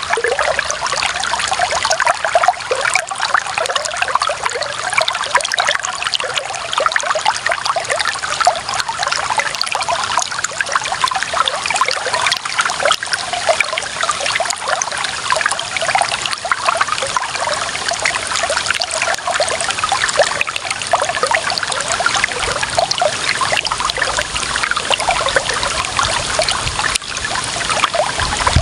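Shallow running water trickling and bubbling steadily over stones, a small stream or brook flowing.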